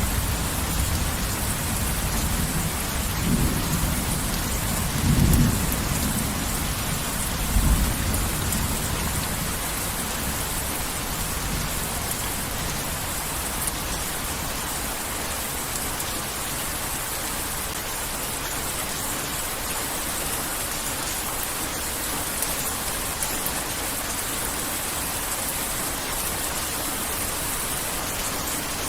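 Heavy rain falling steadily, with low thunder rumbling several times in the first third before dying away to rain alone.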